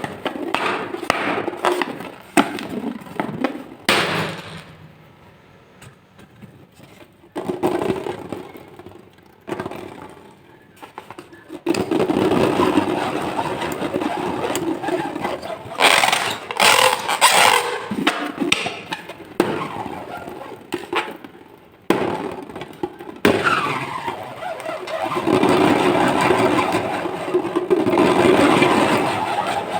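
Balloons and slime being handled at close range, making crackling, rubbing and scraping noises. It starts with a run of sharp clicks, goes quieter for a while, then has long stretches of dense rubbing and crackling with occasional sharp cracks.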